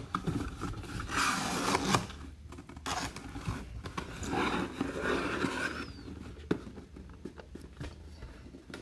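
A mini helmet box being opened by hand: cardboard and packaging scraping and rubbing in two noisy stretches, with a few sharp clicks.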